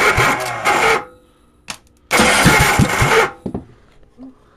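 10-horsepower Tecumseh small engine cranked cold on choke by its electric starter, in two bursts of about a second each. It tries to fire but does not catch.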